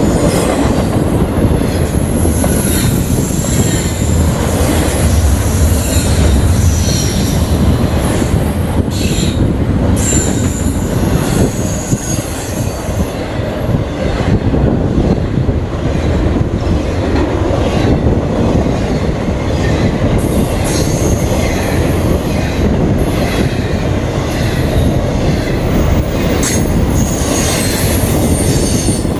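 Norfolk Southern freight train rolling past at close range: a steady rumble of wheels on rail with clicks over the joints and faint, high wheel squeal coming and going.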